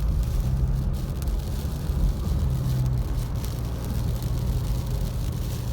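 Car running steadily on the road, heard from inside the cabin: a low engine and road hum with steady tyre noise.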